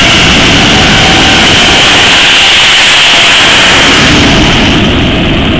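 Jet truck's jet engine running at full power: a loud, hissing roar that eases off slightly near the end.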